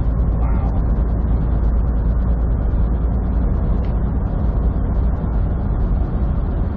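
Steady low rumble inside a moving semi truck's cab: engine and road noise while driving at highway speed.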